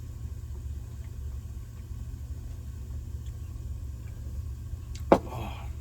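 A beer can cracked open near the end: one sharp snap followed by a brief fizz, over a steady low rumble.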